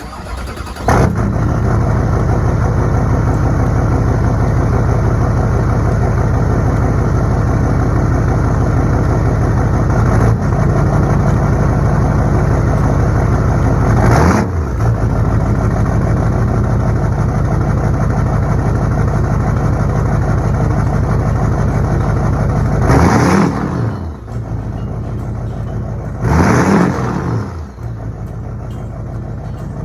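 Vehicle engine idling steadily, blipped three times: a small rev about 14 seconds in, then two stronger revs about 23 and 26 seconds in. It settles a little quieter near the end.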